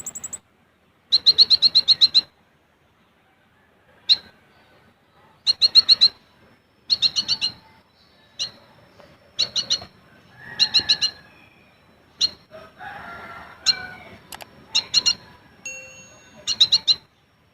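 Male olive-backed sunbird singing in short bursts: rapid chattering trills of high, sharp notes, each under a second long. A few single piercing call notes come between them, with short pauses.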